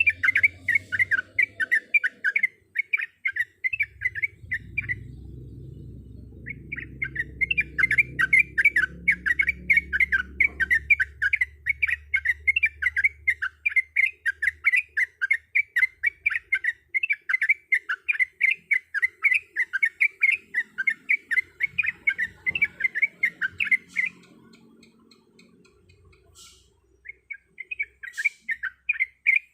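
Sooty-headed bulbul (trucuk) singing long runs of rapid, repeated chirps, breaking off twice for a few seconds. A faint low rumble sits under the song for a stretch in the first half.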